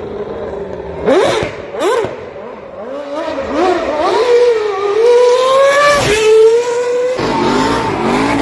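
Stunt motorcycle engine revving hard: two quick sharp blips, then revs climbing and held high for a couple of seconds before dropping suddenly about six seconds in and settling at a lower steady pitch.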